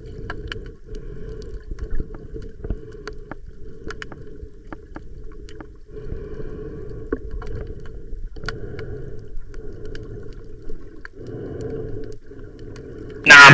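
Muffled underwater water noise picked up by a submerged camera, uneven and rising and falling, with many small scattered clicks and crackles. A brief loud rush of noise comes right at the end.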